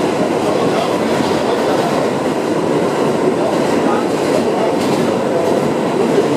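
R62A subway car running along the track, heard from inside the car: a steady loud rumble of wheels on rail, with a few faint clicks from rail joints.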